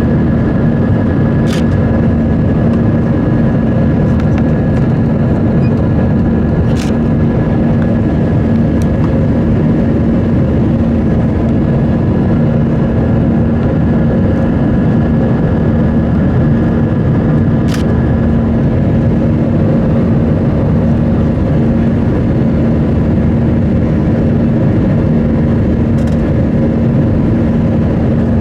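Airbus A320-200 engines and airflow heard from inside the passenger cabin: a steady, loud roar with a constant hum, with a few faint clicks.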